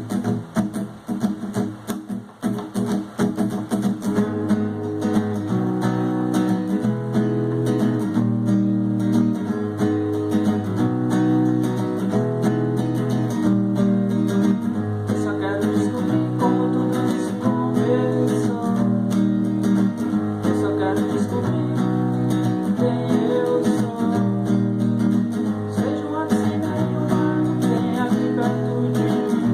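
Acoustic guitar strumming chords. The playing is uneven at first and settles into full, steady strumming about four seconds in.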